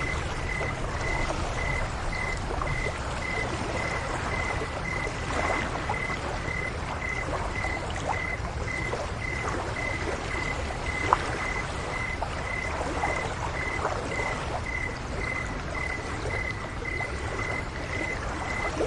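A cricket chirping in an even, high-pitched pulse, about two and a half chirps a second, over gently trickling and lapping water. There is a sharp click about eleven seconds in.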